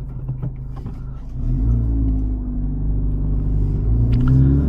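Honda Civic Type R FL5's turbocharged 2.0-litre four-cylinder running through an AWE Touring exhaust, first steady, then getting louder about a second and a half in as the car accelerates, its pitch slowly rising.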